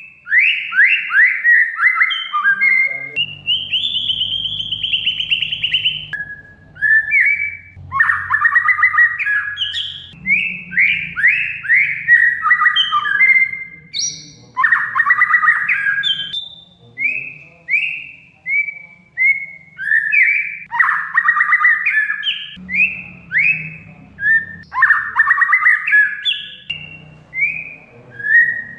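Oriental magpie-robin (kacer) singing loudly in fast phrases of quick downward-sweeping notes, with a long buzzy held note about three seconds in.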